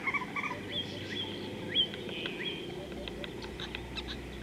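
Wild birds calling: several short whistled notes that sweep sharply upward, mixed with brief chirps, over a faint steady outdoor background.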